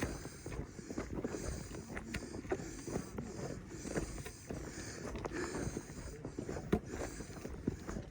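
Footsteps of several hikers crunching along a dirt trail, with irregular sharp clicks and scuffs.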